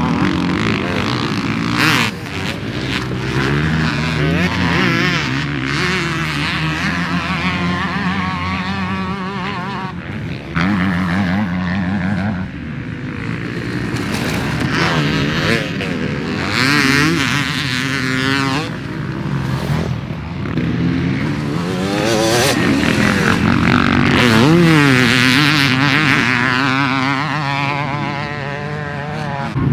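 Two-stroke dirt bike with a Bill's Pipe exhaust being ridden hard, revving up and falling back again and again as the rider works the throttle and gears. The engine is loudest near the end.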